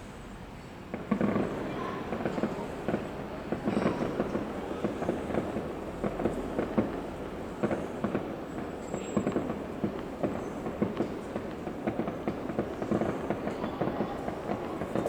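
Fireworks going off in a dense, rapid barrage of crackling bangs, starting about a second in and keeping up without a break.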